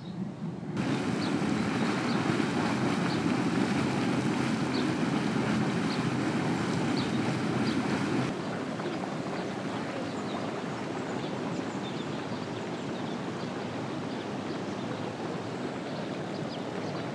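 Steady, churning rush of water from a boiling hot spring. It starts abruptly about a second in and runs a little quieter from about eight seconds in.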